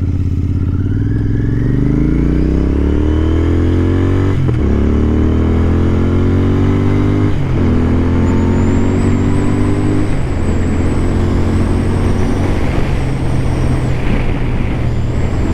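Royal Enfield Continental GT 650 parallel-twin motorcycle accelerating through the gears, its engine pitch rising and then dropping at three upshifts, about four and a half, seven and a half and ten seconds in, then holding steady at cruising speed. Wind rush on the helmet microphone runs under it.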